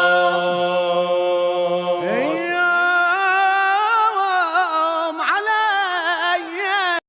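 A voice singing an Arabic song, without words here, holding long ornamented notes that waver in pitch, with a faint low hum under the first couple of seconds. The singing cuts off abruptly just before the end.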